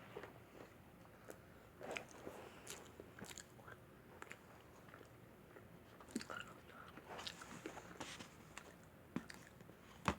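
Faint close-miked chewing and biting of pepperoni pizza: scattered soft crunches and mouth clicks, with one sharp click just before the end.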